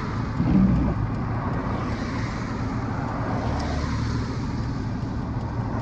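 Steady engine hum and road noise of a car being driven, heard from inside the cabin.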